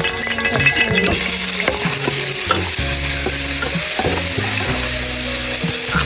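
Food sizzling in a hot pan while being stirred, with the short scrapes and clicks of the utensil against the pan.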